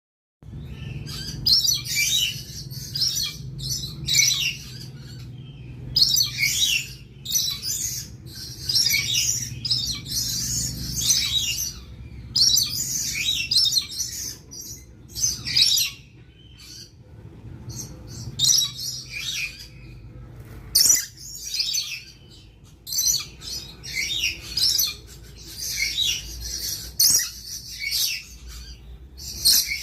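Lorikeets calling in repeated bursts of shrill, chattering screeches, with short pauses between the bursts, over a faint low hum.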